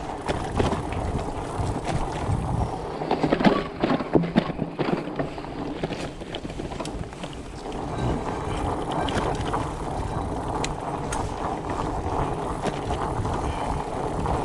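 Wind buffeting the microphone over the sound of a fat bike riding a dirt trail, with sharp clicks and rattles as it goes over bumps, thickest about three to five seconds in.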